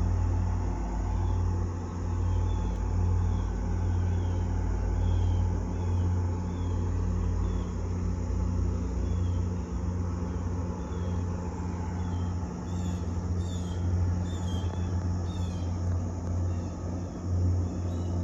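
Diesel locomotive engine running with a steady low rumble and a constant hum.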